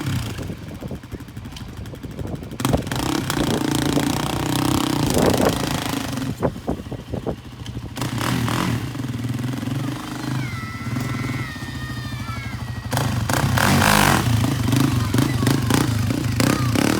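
ATV engine running and being revved, with a hard rev about 13 seconds in as the rider pops the clutch to lift the front wheels.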